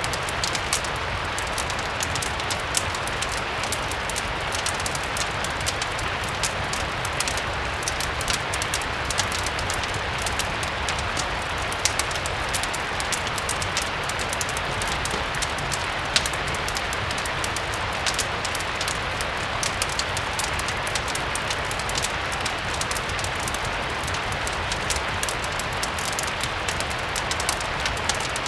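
Steady rain mixed with a crackling fireplace: an even hiss of rain, a dense scatter of sharp crackles and ticks, and a low steady rumble underneath.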